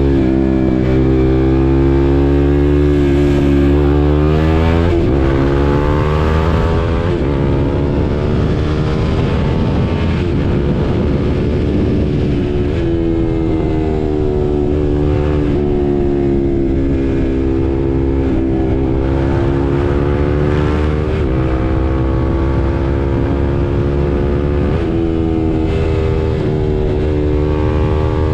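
A KTM RC 390's single-cylinder engine running under way, its pitch climbing and falling as it revs and changes gear, with a sudden jump in pitch several times. For a few seconds, about five seconds in, a rushing noise covers the engine.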